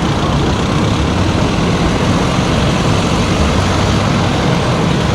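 Steady rumble and road noise of a car driving, with engine and tyre noise heaviest at the low end.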